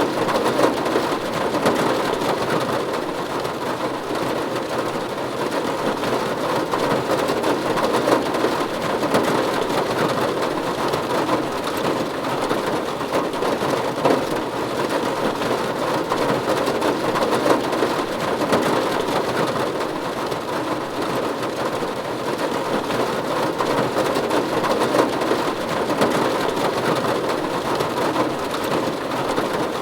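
Steady rain falling on a roof: a dense, even patter with many small drop hits and no breaks.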